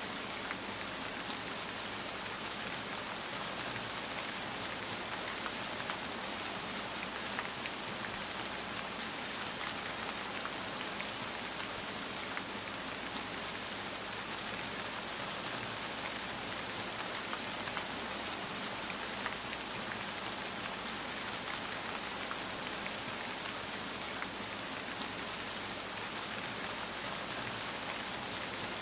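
Steady rain falling, an even patter of drops with small scattered droplet ticks.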